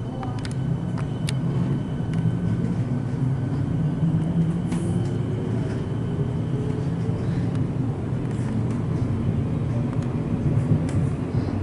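Suburban electric train running from inside the carriage as it pulls away from a station: the running noise builds and a faint motor whine rises slowly in pitch, with scattered clicks.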